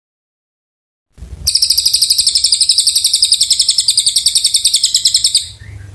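Cililin songbird singing one long, very fast, high-pitched trill of rapid even notes, about fifteen a second. It starts abruptly about a second and a half in and stops shortly before the end. A faint low hum runs underneath.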